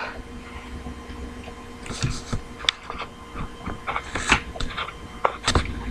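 Irregular light clicks and taps of typing on a laptop, starting about two seconds in, over a steady electrical hum.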